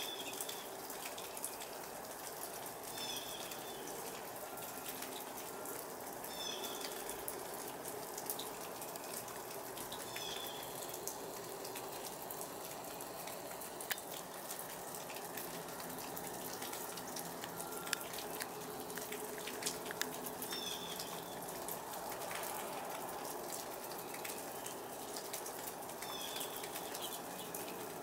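Sleet (ice pellets) pattering steadily on surfaces, a dense hiss of tiny ticks. A bird gives a short high chirp every few seconds, and a few sharper single ticks stand out about halfway through.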